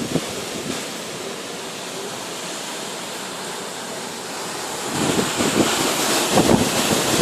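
Gusting storm wind buffeting the microphone: a steady hiss for a few seconds, then strong gusts pick up again about five seconds in.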